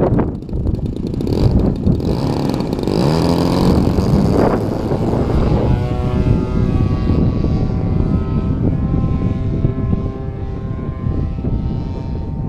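Radio-controlled Aeroworks Extra 260's DLE 35 single-cylinder two-stroke gas engine and propeller in flight, its pitch swooping up and down for a few seconds, then settling into a steady drone from about halfway through. Wind buffets the microphone throughout.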